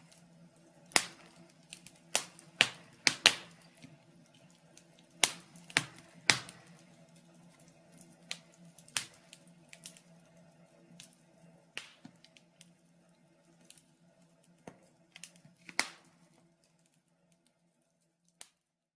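Wood fire in a fireplace crackling, with irregular sharp pops and snaps over a faint steady hum. The sound cuts away near the end, leaving one last pop.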